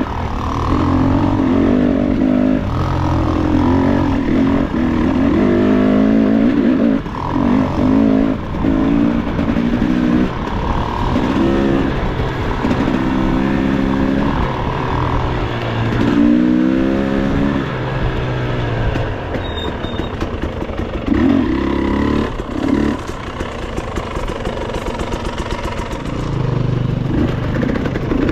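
Enduro dirt bike engine revving in repeated short throttle bursts of a second or two, its pitch rising and falling.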